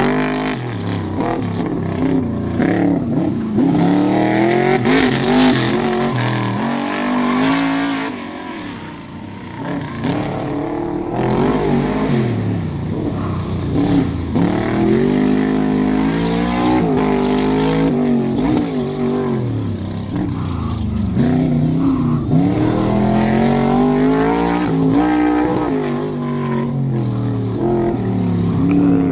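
Car engine running hard through an autocross course, its pitch climbing under acceleration and dropping off again and again as the driver gets on and off the throttle between corners. It eases off briefly about a third of the way in.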